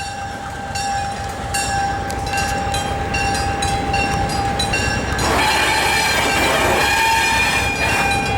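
Southern Pacific diesel locomotive approaching, with a bell ringing about once every three-quarters of a second. About five seconds in, the locomotive's horn starts and holds, louder than everything else.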